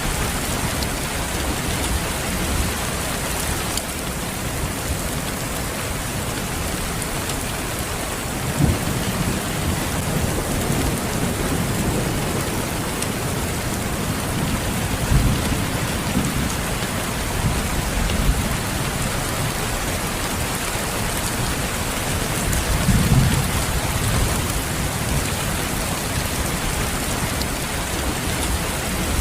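Steady rain falling, with several low rumbles of thunder, the strongest about 23 seconds in.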